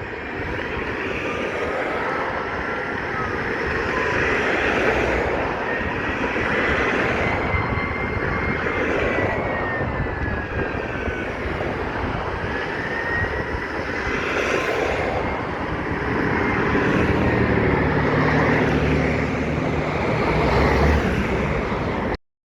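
Fire apparatus sirens wailing in slow rising and falling sweeps, more than one sweeping at once, over the heavy rumble of the trucks' diesel engines. A deeper, steadier low rumble builds in the last few seconds, and the sound cuts off suddenly just before the end.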